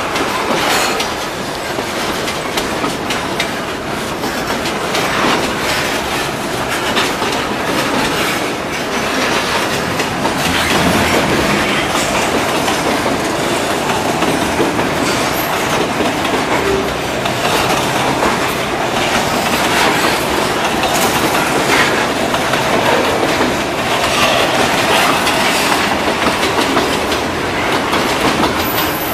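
Container freight train's wagons rolling past: a steady clatter of wheels with many irregular clicks as they cross the rail joints.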